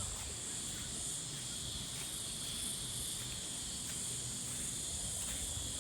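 Steady high-pitched insect chorus of crickets or cicadas, with a low rumble underneath.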